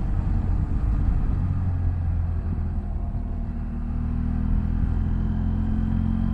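BMW F800GS parallel-twin engine running while riding at a steady speed, with a low rumble of road and wind noise under it.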